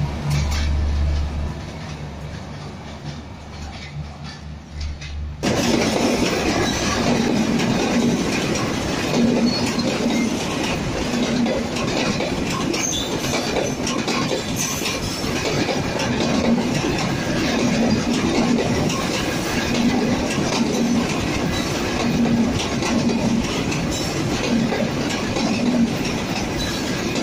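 For the first five seconds, low sustained music notes that fade. After an abrupt cut, an intercity passenger train rolls past close by: steady wheel-on-rail noise with a clatter that repeats about once a second as the wheels cross the rail joints.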